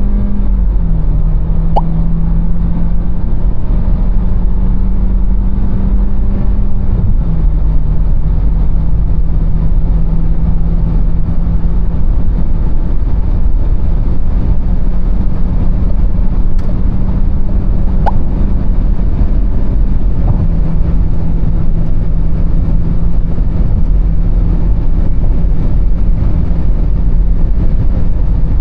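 Interior sound of a Renault Austral Mild Hybrid 160's 1.3-litre turbo four-cylinder petrol engine running at speed, heard as a steady drone over heavy road and wind rumble. The drone steps down slightly in pitch about a second in, about seven seconds in and about twenty seconds in.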